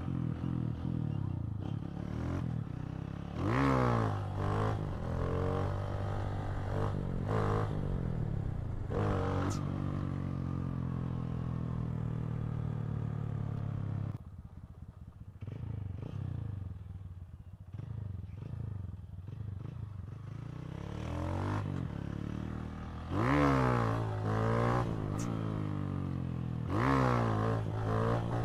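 Honda CG 160 Titan's single-cylinder four-stroke engine running and being revved hard several times, its pitch sweeping sharply up and back down. For several seconds in the middle it drops to a lower, quieter running before the revving picks up again.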